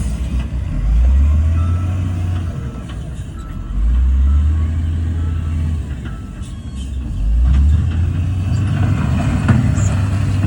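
Heavy diesel engines of earthmoving machinery running, the engine note rising and swelling about three times as the machine is throttled up under load. A faint run of short beeps, like a reversing alarm, sounds briefly a few seconds in.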